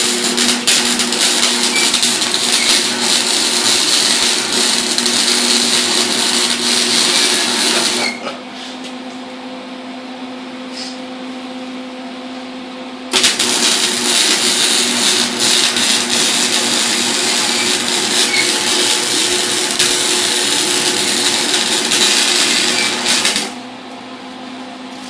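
Arc welding on a turbo flange: two long, loud welding runs of about eight and ten seconds, each starting and cutting off sharply, with a gap between them. A steady low hum runs underneath throughout.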